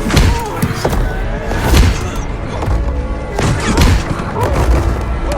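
Film battle sound mix: several heavy explosions booming one after another over a music score.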